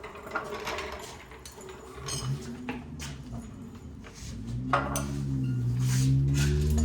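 Scattered metal clinks and knocks of hand tools and hardware being handled during the work. About four seconds in a low, steady droning tone with overtones comes in and keeps going.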